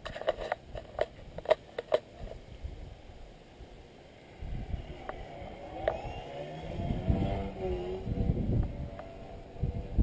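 Electric motor and propeller of a Fun Cub RC model plane droning, its pitch wavering up and down as it flies about, with wind buffeting the microphone in the second half. A few sharp knocks in the first two seconds.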